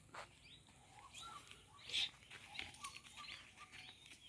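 Faint small birds chirping in short rising notes, with a few soft ticks and scuffs and one slightly louder chirp or scuff about two seconds in.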